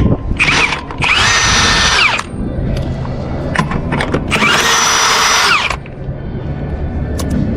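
Power tool, most likely an impact wrench on truck wheel lug nuts, run in three bursts: a short one at the start, one of about a second, and a longer one around the middle. Each burst spins up and winds down. Metal clicks and knocks fall between them.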